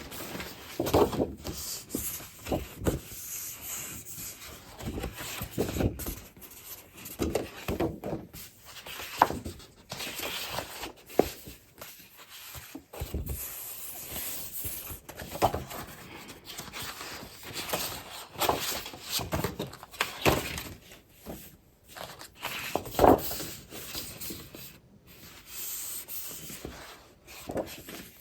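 Scrapbooking paper and craft supplies being handled by hand: irregular rustling and rubbing of paper and packaging, with soft knocks as items are set down.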